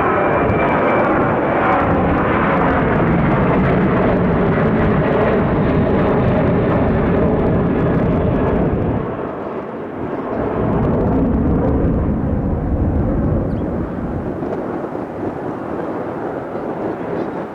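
Loud aircraft noise from an ATR 42-600 turboprop airliner's engines and propellers. Faint tones fall in pitch near the start, and the level dips briefly about nine seconds in before rising again.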